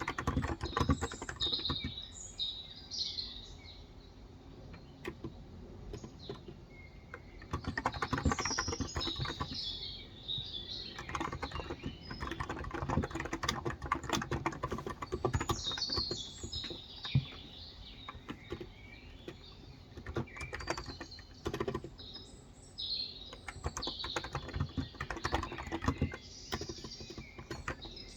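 Typing on a Cox Endeavor tenkeyless keyboard with 35 g capacitive (contactless) switches: runs of rapid key strokes in several bursts, with short pauses of a few seconds between them. Small birds chirp and twitter throughout.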